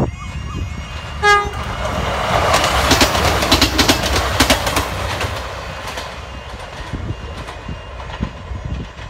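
Class 158 diesel multiple unit giving a short horn note about a second in, then passing close by with its wheels clicking over the rail joints. The noise fades as the train moves away.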